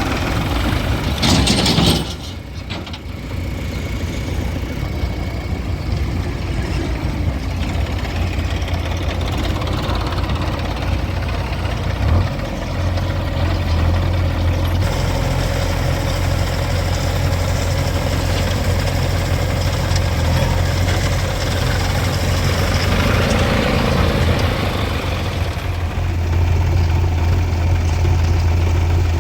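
Heavy diesel engines running steadily at a construction loading site, with a low, continuous hum that grows stronger about twelve seconds in. There is a brief loud burst of noise about a second and a half in.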